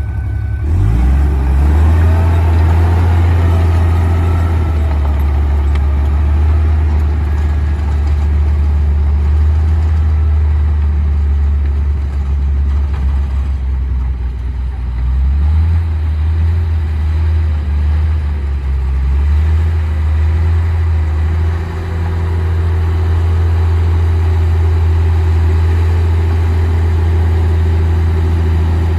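Komatsu D58P bulldozer's diesel engine running steadily with a deep hum, its engine speed shifting a few times, about halfway through and again about three-quarters of the way in.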